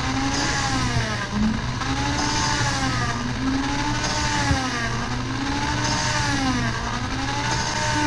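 Electric drill spinning a new valve against its seat with coarse lapping compound, its motor pitch rising and falling about every two seconds, with a gritty grinding hiss.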